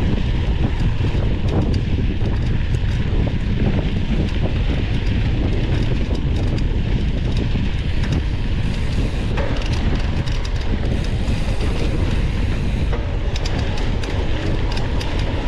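Wind buffeting the microphone of a camera riding on a mountain bike, with the steady rumble and rattling clicks of the bike rolling over a rough dirt trail.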